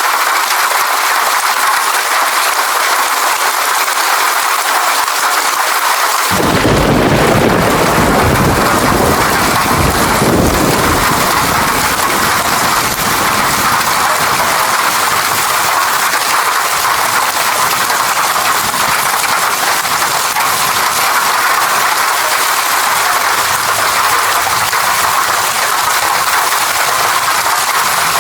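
Steady heavy rain falling, with a roll of thunder that starts suddenly about six seconds in and rumbles away over the following several seconds.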